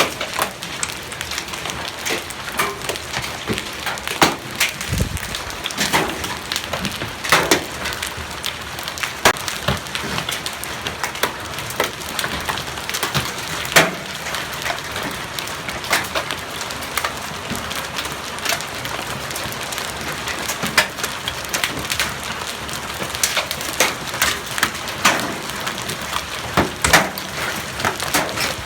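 Hailstones striking hard surfaces in a storm: a dense, steady patter with frequent irregular sharp cracks as larger stones hit.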